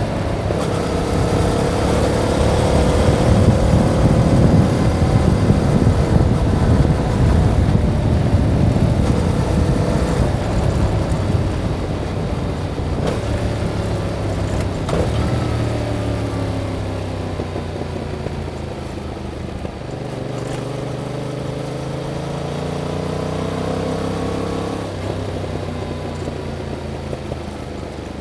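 Yamaha MT-07's parallel-twin engine on its stock exhaust, ridden at steady revs with heavy wind noise. About halfway through, the revs fall away as the bike slows, and the engine then holds low revs until near the end.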